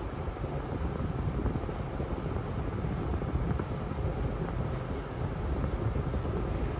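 Automatic tunnel car wash equipment heard from inside the car: a steady low rumble with a hiss of spray and machinery.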